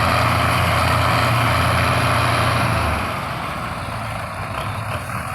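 Tractor diesel engine running hard, then easing off about three seconds in and running on more quietly.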